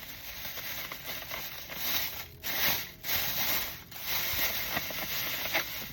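Crinkling, rubbing and scraping of takeout food packaging being handled, uneven with a few brief pauses.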